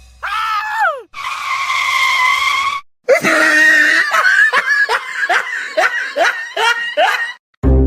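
A voice screaming, then breaking into a run of short, falling bursts of hard laughter.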